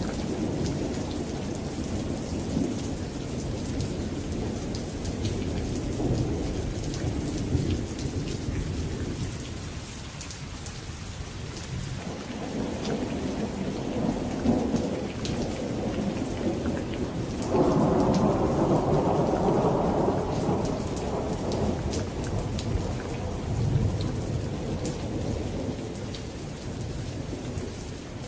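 Steady rain with the tick of drops, under rolling thunder that swells and fades several times; the loudest roll comes about two-thirds of the way in and lasts a few seconds.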